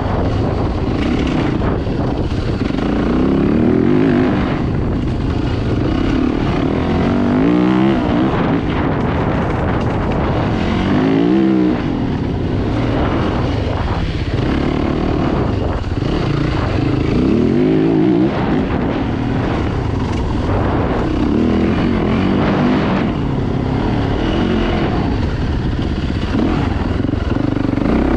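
Dirt bike engines running, revving up and down again and again, their pitch rising and falling repeatedly with several engines overlapping.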